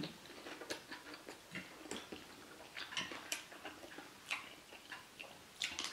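Chewing a mouthful of beef meatball close to the microphone: faint mouth noises with scattered soft clicks and smacks.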